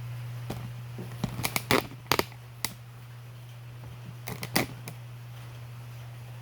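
Hand tools clicking and clinking against metal in two short clusters, one after about a second and another near the middle, as the exhaust is worked loose from a Kohler engine. A steady low hum runs underneath.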